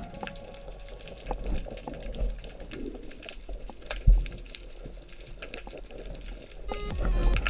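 Water sounds, a low hiss scattered with small clicks, with one sharp thump about four seconds in. Music comes in near the end.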